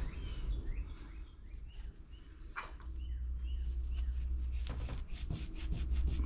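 Scotch-Brite pad scrubbing the rusty metal surface inside an HEI distributor cap, a run of quick rubbing strokes starting about two-thirds of the way in, to clean up the coil's contact surface. Before that it is quiet, with a click and a few faint chirps.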